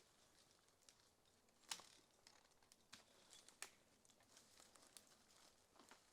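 Near silence with faint, scattered crackles and ticks, two sharper clicks about two and three and a half seconds in.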